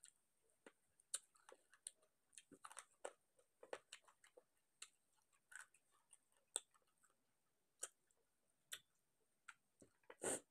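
Faint chewing and wet mouth clicks from someone eating rice and chicken kosha by hand, with fingers working the rice on a plate. Soft irregular clicks throughout, and one louder click near the end.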